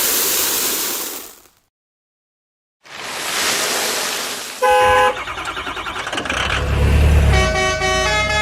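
Cartoon sound effects: a loud rushing whoosh that cuts off about a second and a half in, then after a short silence another rush building up. A short horn toot follows, then quick pulsing tones and a low vehicle rumble under a run of stepped, tuneful tones.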